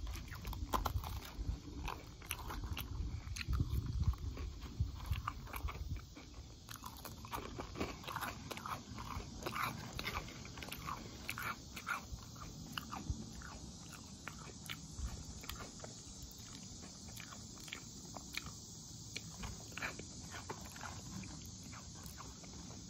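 Close-up chewing and crunching of food, with many small wet mouth clicks. Low dull thumps run through the first several seconds, then the chewing goes on more quietly.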